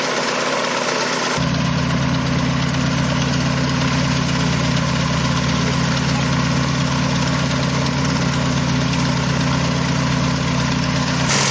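A vintage aircraft's piston engine running steadily at a low, even speed. It gets louder and fuller about a second and a half in and holds that steady note to near the end.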